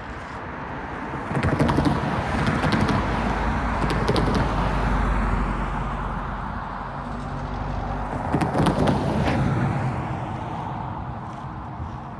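Vehicles passing by with a rumble that swells about a second and a half in, eases, then swells again around eight seconds.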